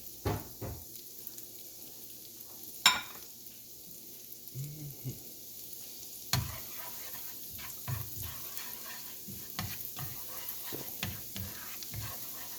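Minced garlic sizzling in butter and oil in a pan, with a utensil stirring and knocking against the pan now and then. There is one sharp knock about three seconds in.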